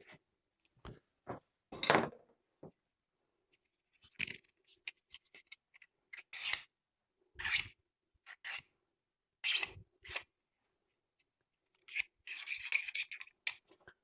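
Short rubbing or scraping strokes on plastic, one every second or so, with a quicker run of strokes near the end.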